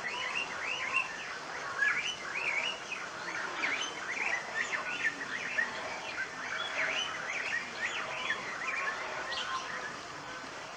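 Many birds chirping together in a dense chatter of short, quick calls that overlap continuously, thinning out near the end.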